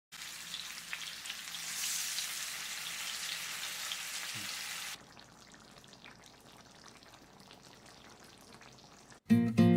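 Fish sizzling as it fries in hot oil, a steady hiss that drops abruptly to a faint sizzle about five seconds in. Acoustic guitar music starts near the end.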